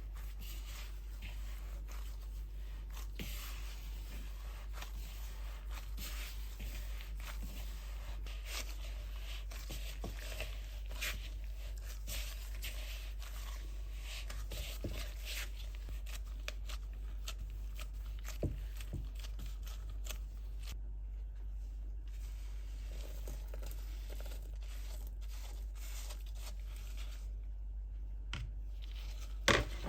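Handling noises: tearing and crinkling with scattered light clicks and taps in a small room, over a steady low hum.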